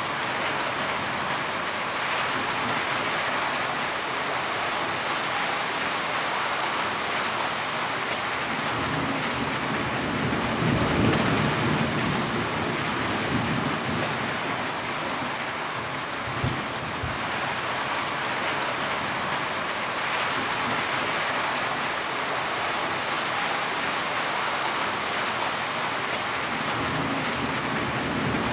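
Heavy rain falling steadily in a dense, even hiss, with a low rumble swelling about ten seconds in.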